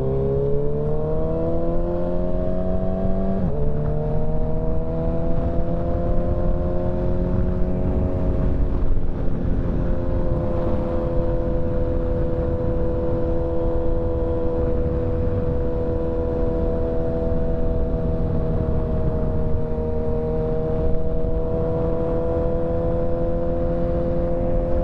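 Motorcycle engine under way: the revs climb, drop sharply with an upshift about three and a half seconds in, then build slightly and hold steady at cruising speed, over a constant low rumble of road and wind. Another shift comes right at the end.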